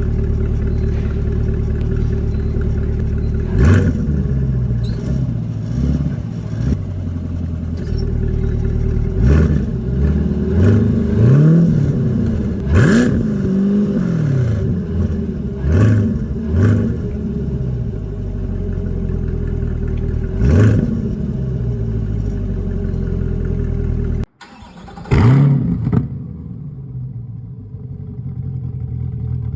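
C8 Corvette V8 through a center-exit exhaust, idling with a string of quick throttle blips, the pitch rising and falling with each rev. About 24 seconds in it cuts abruptly to another car that revs once, then idles more quietly.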